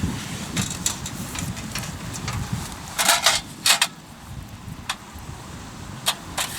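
Hardwood campfire crackling, with scattered sharp pops and a cluster of louder cracks about three seconds in, over a low steady rumble.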